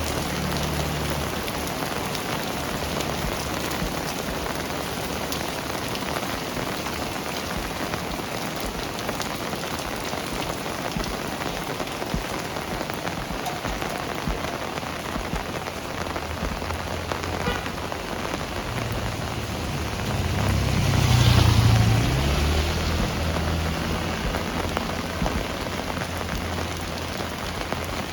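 Heavy rain falling steadily, an even hiss of rain on surfaces. About twenty seconds in a low rumble swells up and fades over a few seconds.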